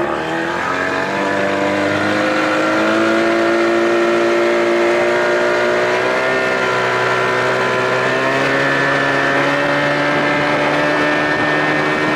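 2000 Johnson 25 hp two-stroke outboard running under load, pushing the boat at speed. Its pitch climbs over the first few seconds, then holds steady with small rises.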